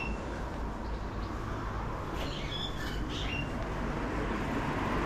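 Birds in an aviary calling in short, high squawks, two brief bursts about two and three seconds in. Underneath runs a steady rush of wind and tyre noise from a slowly ridden bicycle.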